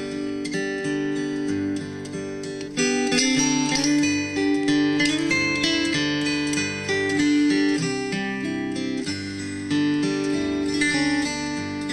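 Background music: acoustic guitar strumming chords, growing louder about three seconds in.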